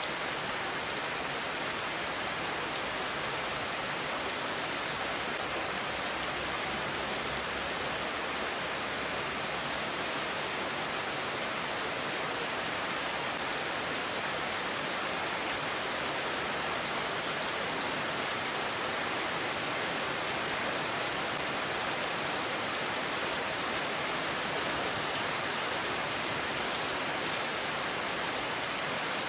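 Steady rain falling, an even, unbroken hiss of drops with no let-up.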